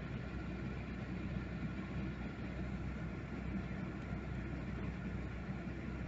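Steady low mechanical hum of a small motor running, with faint even tones above it.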